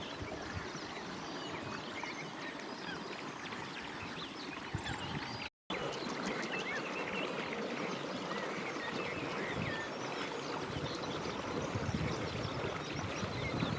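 Many birds calling and chirping at once, a dense mixed chorus over a steady rushing background noise. The sound cuts out for an instant a little over five seconds in.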